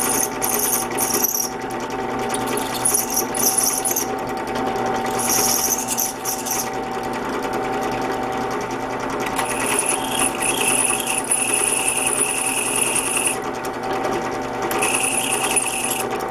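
Drill press motor running steadily as a 9/64 bit countersinks screw holes in very thin sheet metal. High-pitched screeching comes and goes as the bit is touched to the metal: several short bursts in the first few seconds, then longer stretches in the second half.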